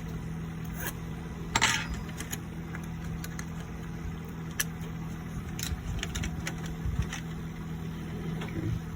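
Small clicks and scrapes of hands cleaning the RAM slots on a laptop motherboard, with one louder short rustle about one and a half seconds in, over a steady low hum.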